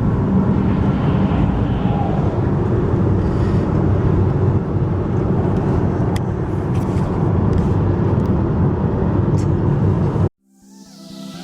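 Steady low road rumble of a car on the move, heard from inside. It cuts off abruptly near the end, and music begins.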